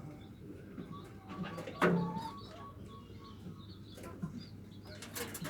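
Zebra dove (perkutut) cooing in its 'nutut' style: a run of short, evenly spaced notes. A sharp click comes just before two seconds in, with further clicks near the end.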